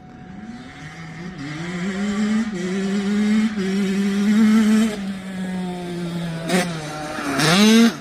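Kawasaki KX85 two-stroke dirt bike with an FMF shorty pipe, growing louder as it accelerates. The engine note climbs and drops back several times as it shifts up through the gears. It then eases off, with a quick blip and a sharp rising rev near the end.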